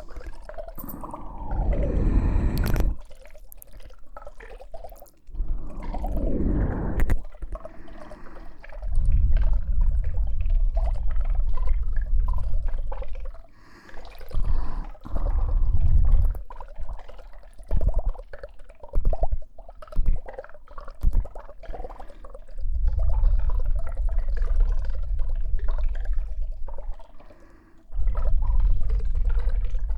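Close-up ASMR trigger sounds on a KU100 binaural dummy-head microphone's ears: wet, liquid sounds mixed with heavy rumbling from contact with the ears, coming in long stretches with short pauses, and two falling sweeps near the start.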